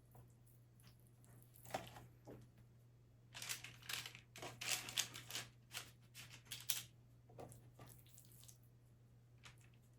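Irregular rustling and crinkling with a few light clicks, busiest in the middle, over a steady low hum.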